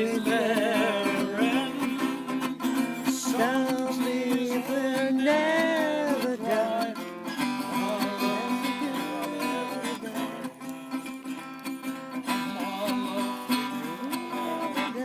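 Acoustic guitar strummed in a slow country rhythm, with a wavering melody line over it. It grows softer in the second half.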